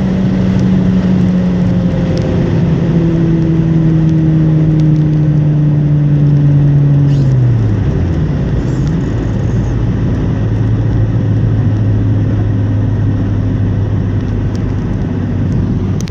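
Volkswagen Golf Mk3 1.8 8-valve single-point-injection four-cylinder (ADZ) with a Remus muffler, running at speed. Its pitch sinks slowly, then drops sharply about seven and a half seconds in, and settles into a steady lower drone under road and wind noise.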